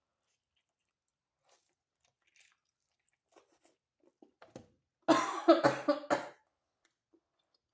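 A woman coughing, a loud cluster of coughs about five seconds in, after a few faint chewing sounds while she eats.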